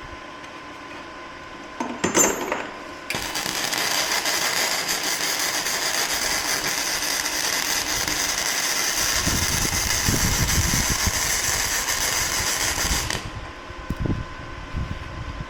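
A short clank, then a machine or tool running with a steady hiss for about ten seconds, starting and stopping abruptly, with some low knocking in its second half.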